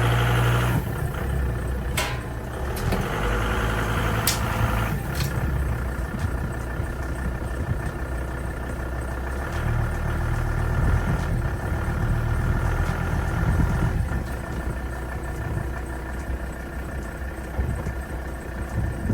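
Volvo car engine idling steadily, with a few sharp clicks in the first five seconds.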